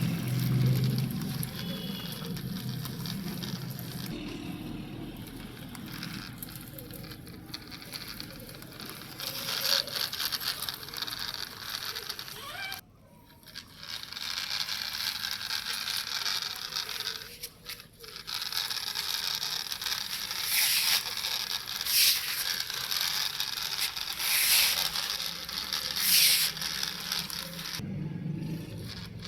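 Loose gravel scraping and crackling under a toy vehicle being moved through it, with sharper crunches in the second half.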